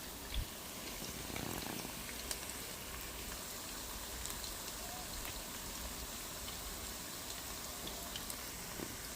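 Egg rolls deep-frying in hot oil in an electric pan: steady sizzling with many small scattered pops and crackles. A single short thump about half a second in.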